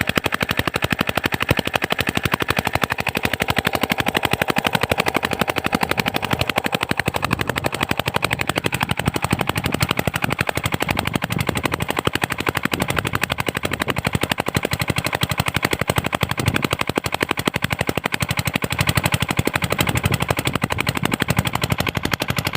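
7 hp single-cylinder diesel engine running steadily under load, driving a water pump, with a rapid, even exhaust knock.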